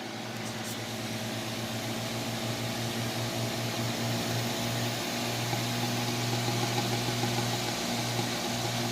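Vornado 12P1 fan running: a steady motor hum under a rush of air, with the hum pulsing unevenly. This is the fan whose rattle the owner is trying to trace.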